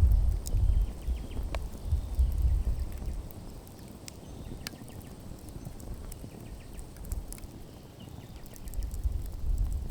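Wood campfire burning, with irregular sharp crackles and pops. A low rumble sits under it for the first few seconds, dies away, and comes back near the end.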